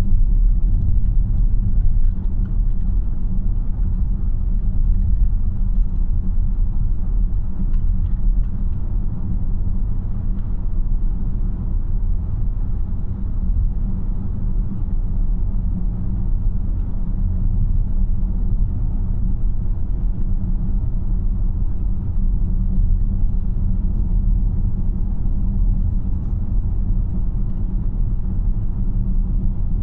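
Steady low road and tyre rumble inside the cabin of a moving 2026 Tesla Model Y AWD, an electric car with no engine note.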